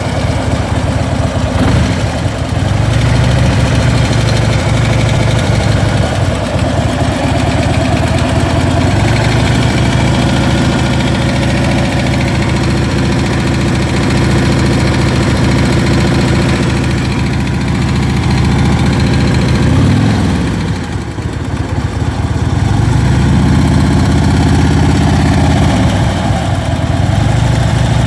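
Harley-Davidson Ultra Limited's V-twin engine idling with a ticking noise, blipped up in revs and back down a few times in the latter part.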